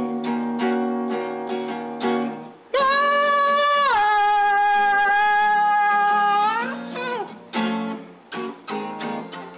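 Acoustic guitar strummed, then a long wordless sung note held for about four seconds, stepping down in pitch partway, over the guitar. A few more strummed chords follow, fading as the song closes.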